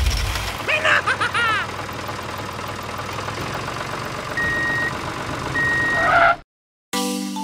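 Tractor engine running steadily, with two short high reversing beeps about four and five and a half seconds in as the tractor backs up; the engine sound cuts off suddenly near the end.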